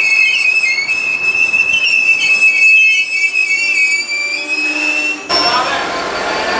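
Container freight train wagons rolling past, their wheels squealing at a high, wavering pitch. About five seconds in the sound cuts to a Class 66 diesel locomotive's engine running.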